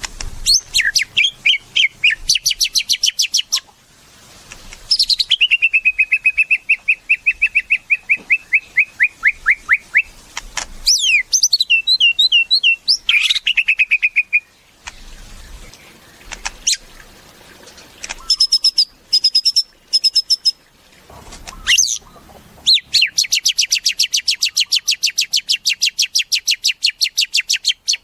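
White-rumped shama (murai batu) singing: loud phrases of rapidly repeated notes and fast trills, broken by short pauses, including one long run of quick notes that falls in pitch at its end and a long, fast high trill near the end.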